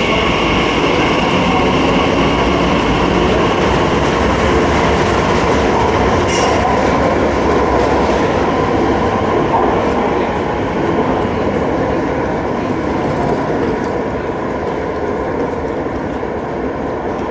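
Electric passenger train running on the line with a steady rumble and wheel noise. A high whine at the start fades within the first few seconds, and the sound eases off slightly toward the end.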